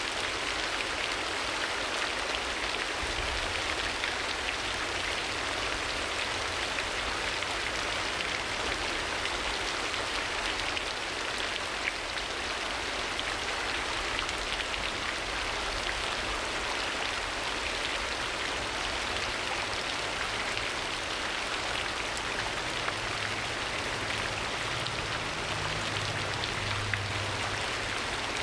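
Steady rain ambience: an even, continuous patter of rain falling on a surface.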